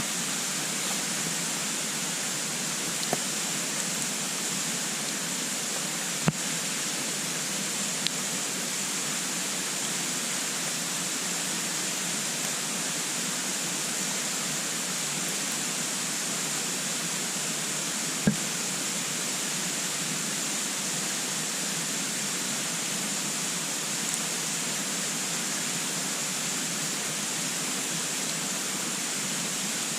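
Wood crackling in a compact wood-burning stove: a handful of sharp pops, the loudest about six and eighteen seconds in, over a steady even hiss.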